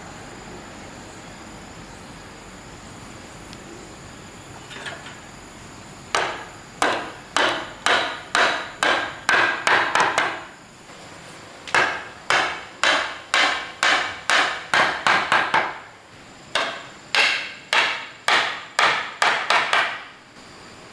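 Hammer blows on wood in three runs of steady strikes, about two to three a second, each with a short ringing decay. The first run starts about six seconds in, and the runs are separated by pauses of about a second.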